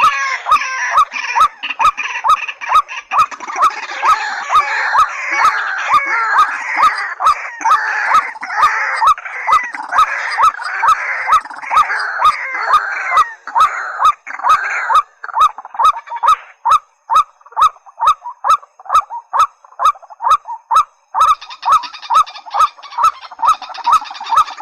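Recorded calls of white-breasted waterhens and watercocks: a steady run of short, repeated calls about two a second, with a busier chorus of higher calls over them that drops away past the middle and returns near the end.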